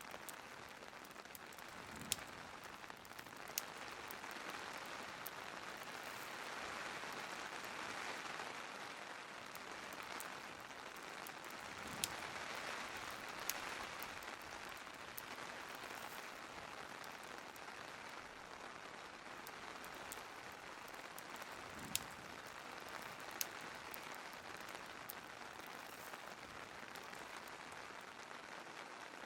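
Steady hiss of rain ambience with a few sharp fireplace crackles, coming in pairs about every ten seconds.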